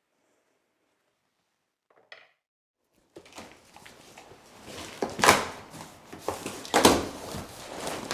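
Hard objects being handled and set down, starting about three seconds in: an irregular clatter with three loud knocks.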